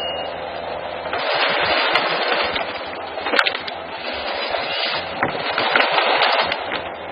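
Timber cracking and splintering as trees are broken down by forestry machinery, a dense crackle with one sharp crack about halfway through.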